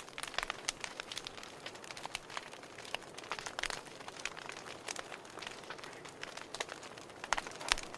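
Wood fire crackling in a fireplace: irregular sharp pops and snaps over a soft steady hiss, with the loudest pops near the end.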